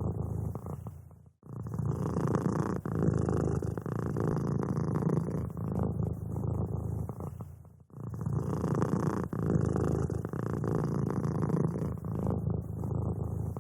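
Domestic cat purring steadily and close up. The purr breaks off briefly twice, about a second in and again near eight seconds.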